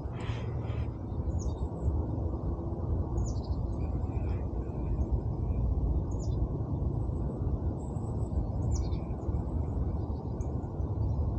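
Short, high bird chirps every couple of seconds over a steady low outdoor rumble.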